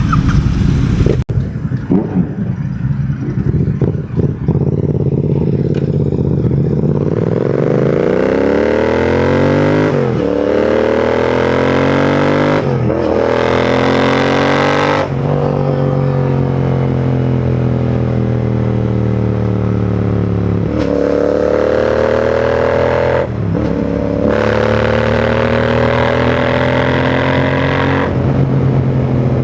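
Royal Enfield Continental GT 650's parallel-twin engine and exhaust under way, running unevenly for the first few seconds, then accelerating through the gears: the pitch rises in each gear and drops at each shift, with more shifts between stretches of steady cruising.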